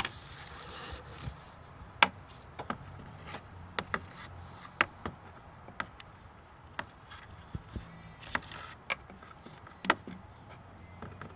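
Irregular sharp clicks and light knocks of small parts being handled, several seconds apart, over a faint low steady hum.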